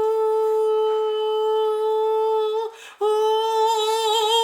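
A woman's voice singing two long held notes on the same pitch, with a brief break about three seconds in; the second note begins to waver with vibrato toward the end.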